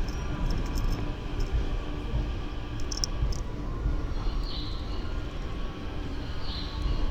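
Train rumbling at a station platform, a steady low rumble with a faint hum. From about four seconds in, a short high chirp repeats about every two seconds.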